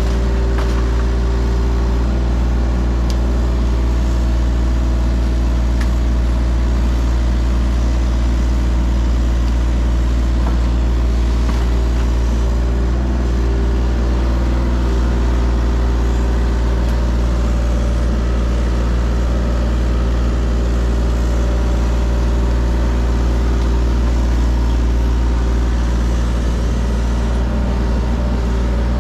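Mini excavator's diesel engine running at a steady speed under work, with a few faint knocks and scrapes over the top.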